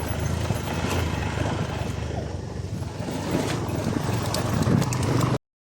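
Motorcycle running on the move with wind rushing over the microphone, a steady low rumble that cuts off abruptly near the end.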